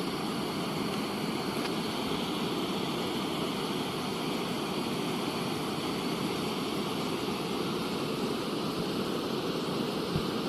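Steady rushing of floodwater in a swollen river, an even low rush with no breaks, and a brief low thump near the end.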